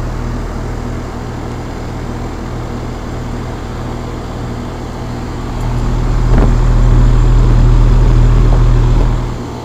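Outdoor unit of a 2001 Trane XE1000 Weathertron heat pump running, with a steady compressor and fan hum. From about six seconds in a deep rumble swells much louder, then drops back shortly before the end.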